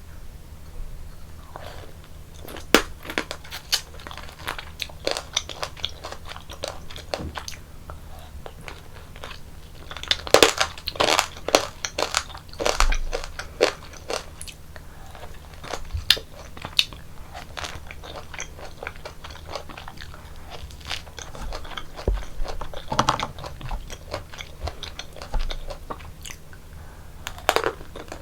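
Close-miked biting and chewing of tanghulu: the hard candied-sugar shell cracking and crunching, in several bouts of crisp crunches with quieter chewing between.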